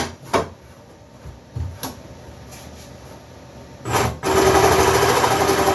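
A few light knocks, then about four seconds in a Milwaukee M18 FUEL D-handle cordless jigsaw starts and runs steadily, cutting slowly through the table-top board.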